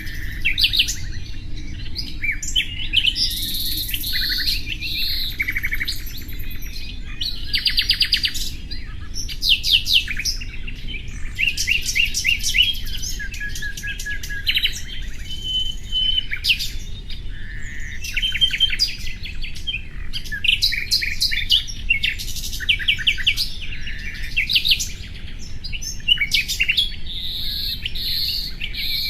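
Common nightingale singing a continuous string of varied phrases: rapid runs of repeated notes, trills and short pure whistles, with brief pauses between phrases, over a steady low rumble.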